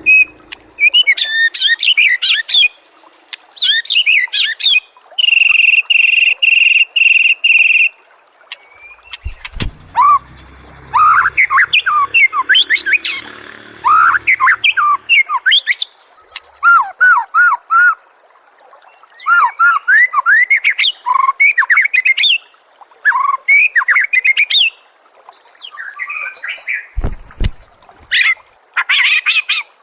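White-rumped shama singing a long, varied song: sliding whistles, rapid fluttering trills and a short run of evenly pulsed repeated notes, phrase after phrase with brief pauses.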